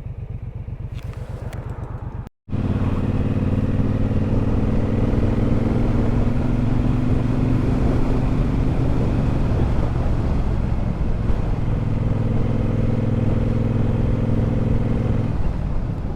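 Triumph Bobber's 1200 cc parallel-twin engine, first ticking over with an even pulsing beat, then, after a brief cut, running under way with its pitch rising gently as the bike gathers speed and settling to a steady note later on.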